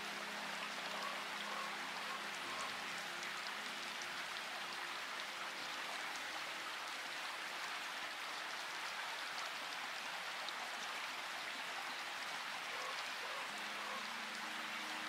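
Steady rain, an even hiss dotted with small drop ticks. A low steady hum sits under it at the start, fades out about four seconds in, and returns near the end.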